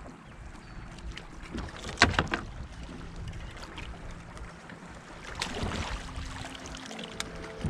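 Knocks and handling noise on a fishing kayak on open water. The loudest is a sharp knock about two seconds in, with another cluster of knocks around six seconds in.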